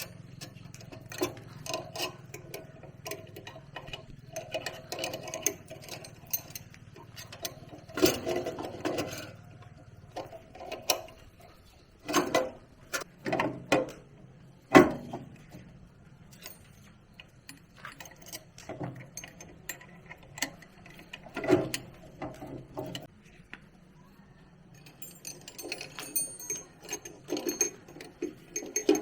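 Irregular clicking, clinking and knocking of metal tools and parts being handled during hand repair work, with a few sharper knocks near the middle, over a faint low hum.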